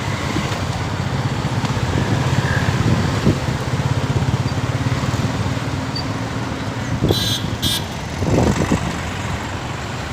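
Motorcycle engine running steadily on the move, with road and wind noise. About seven seconds in come two short high-pitched sounds.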